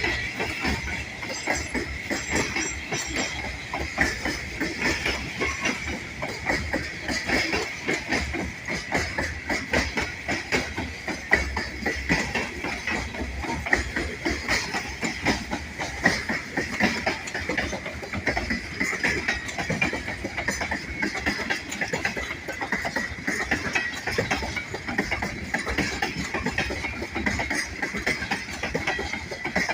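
Railroad cars of a passing freight train rolling by, wheels clacking continuously and rapidly over the rail joints, with a steady high-pitched tone above the clatter.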